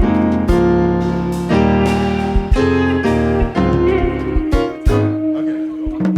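Live band playing an instrumental passage: sustained chords with guitar over bass and a low kick drum about once a second, thinning out to a single held note near the end.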